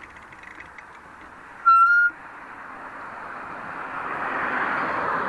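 Road traffic going by, with a short, high single beep of a horn about two seconds in, then a vehicle's tyre and engine noise swelling as it passes close.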